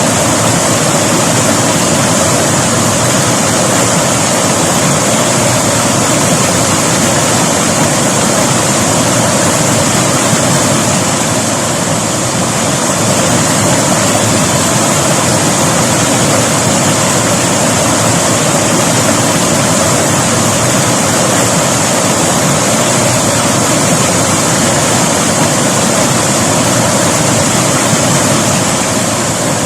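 River water flowing in a loud, steady, unbroken rush.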